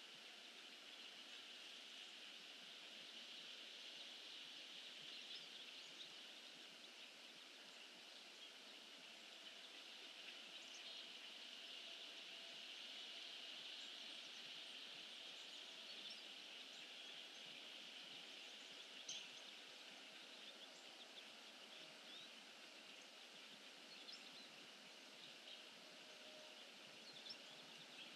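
Near silence: a faint steady hiss with a few faint scattered ticks.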